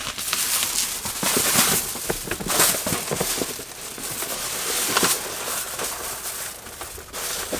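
Crinkling and rustling of a foldable windscreen sunshade being handled and fitted in place, with irregular crackles and small knocks.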